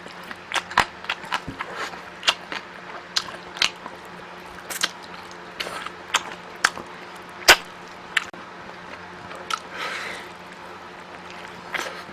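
Close-miked eating: chewing with many short, sharp, irregular clicks, the loudest about seven and a half seconds in, and a longer, softer noisy stretch around ten seconds in.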